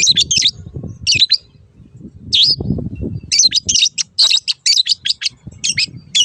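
Long-tailed shrike giving short, harsh chattering calls: a few spaced calls, then a quick run of about a dozen from about three seconds in. A low rumble sits underneath at times.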